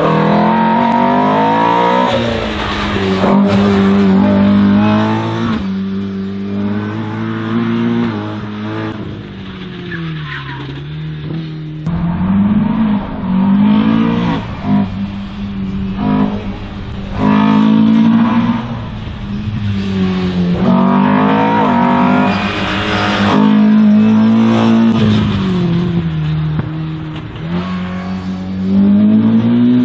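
Race car running an autoslalom course: its engine revs up hard and drops back again and again, every few seconds, as it accelerates and slows between the gates.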